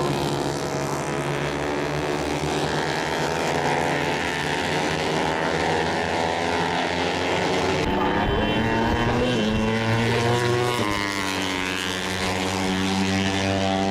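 Moto3 racing motorcycles' 250cc single-cylinder four-stroke engines running at high revs. Several bikes are heard at once, their pitch rising and falling through gear changes. The sound changes abruptly about eight seconds in, and after that the pitch slides up and down.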